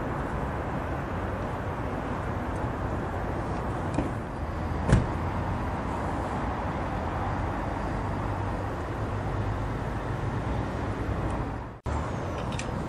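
Lamborghini Gallardo SE's V10 engine and exhaust running steadily without revving, with a single sharp click about five seconds in and a brief cutout near the end.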